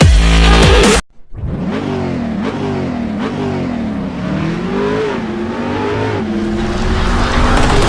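Loud electronic music stops abruptly about a second in, giving way to a car engine revving, its pitch rising and falling several times before holding steadier near the end.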